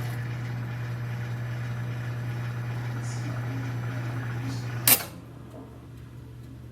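Comfee EM720CPL-PMB countertop microwave oven running with a steady electrical hum, which cuts off with one sharp click about five seconds in.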